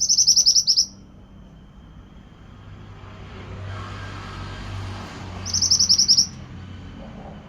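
Mantenan (pied bushchat) song: two loud, rapid trilled phrases of about ten short high notes each, one at the start and one about five and a half seconds in. A faint rushing noise swells and fades between them.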